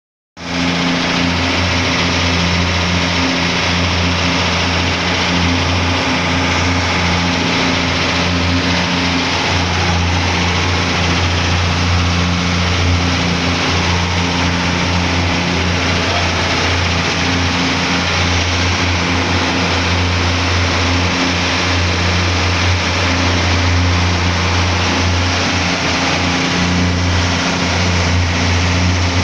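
Boat engine running steadily at an even speed: a loud, constant low drone with a hiss above it, no change in pitch throughout.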